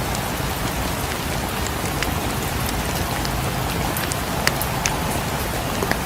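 Steady rain falling on a cabin, with a few sharp crackles from a wood fire, mostly in the second half.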